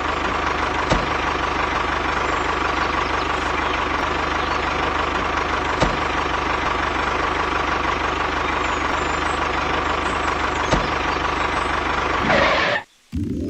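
DIY mini tractor's motor running steadily, with a faint click about every five seconds; it cuts off abruptly near the end.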